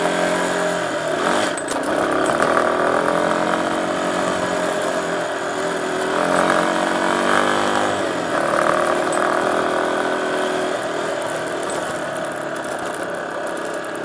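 Dirt bike engine running under way, its pitch climbing and dropping back several times as the rider opens and eases the throttle.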